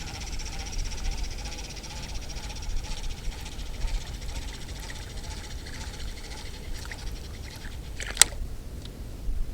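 Wind buffeting the microphone as a steady low rumble, with one sharp click about eight seconds in.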